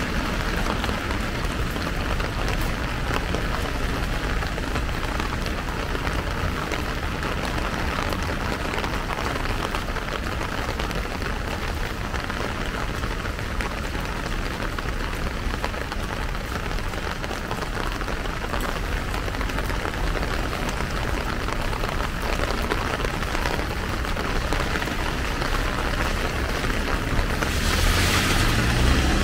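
Steady rain pattering on a plastic umbrella overhead, with rain on the wet paving around. Near the end a louder rush of hiss swells for about a second and a half.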